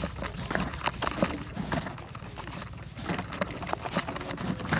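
Bicycle rattling and knocking over a rough trail: an irregular clatter of sharp knocks, with a steady low rumble of wind on the microphone.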